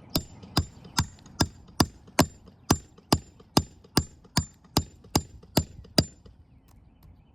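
Hammer blows on a shingled roof, about fifteen strikes at a steady pace of roughly two a second, each with a short ringing tone, stopping about six seconds in: the work of freeing nails while tearing up hip shingles.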